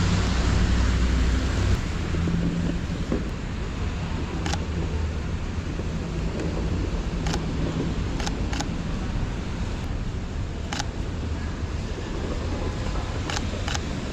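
Snowy street ambience of wind buffeting the microphone and traffic rumbling past, louder in the first two seconds. About eight sharp camera shutter clicks from a Sony a7 IV are scattered through it, some in quick pairs.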